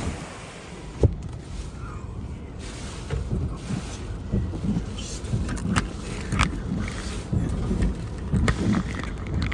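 Hurricane wind gusting and buffeting the microphone in uneven low rumbles over a steady hiss. A sharp tap comes about a second in, and scattered sharp ticks follow in the second half.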